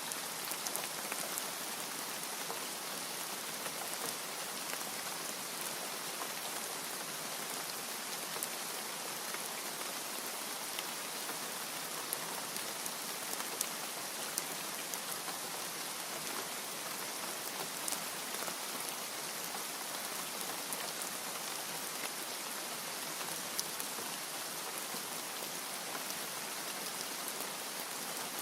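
Steady rain falling: an even, continuous hiss with scattered sharper ticks of individual drops striking a surface.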